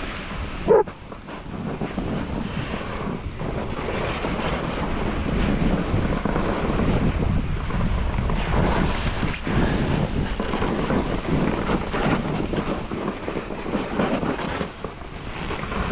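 Snowboard sliding and scraping over snow, with wind buffeting the microphone: a rushing noise that swells and dips. Just under a second in, a single short, loud dog bark.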